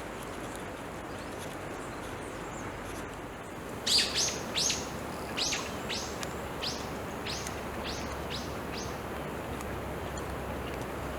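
A bird singing a series of about a dozen short, high, down-slurred notes, starting loud about four seconds in and trailing off, fainter and more spaced, over about five seconds. A steady outdoor background hiss runs underneath.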